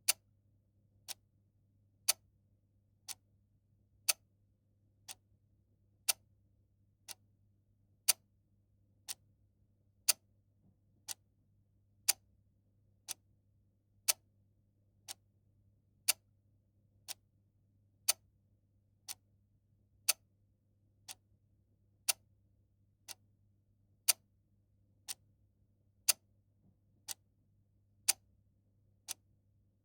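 Mechanical clock ticking steadily once a second, the ticks alternating louder and softer in a tick-tock pattern. A faint steady low hum lies underneath.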